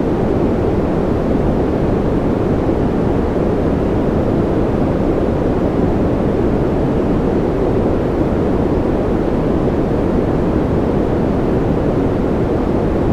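Steady noise, even and unchanging, weighted toward the low end so it sounds more like a deep rush than a bright hiss.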